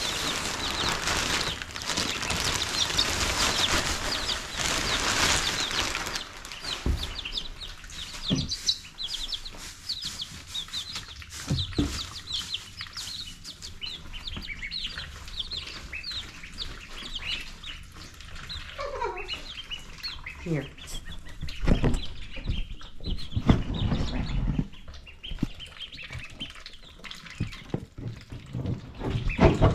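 Baby chicks peeping: a constant run of short, high, rising chirps, joined by a few lower falling calls from the birds. The first six seconds are covered by a loud rustling noise, and a few dull thumps come now and then.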